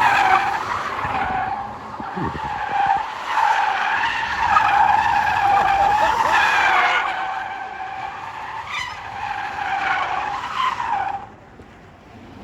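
Tesla's tyres screeching as the car drifts, with no engine note, a loud, long screech wavering in pitch that cuts off sharply near the end.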